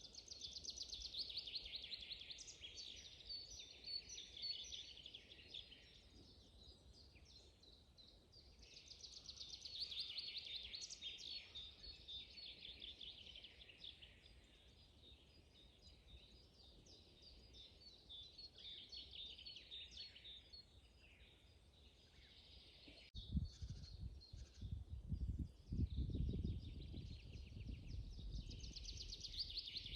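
Several songbirds singing together in a spring forest, rapid overlapping trills and chirps that swell and fade in waves. From about three-quarters of the way in, a low rumble comes in under the birdsong.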